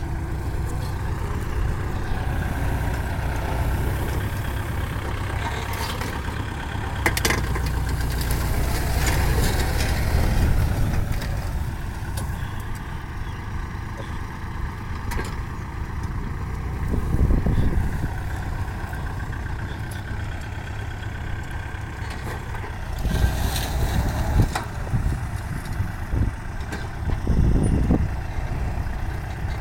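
Kubota tractor diesel engine running steadily in the field, its note swelling louder a few times, most plainly about halfway through and again near the end.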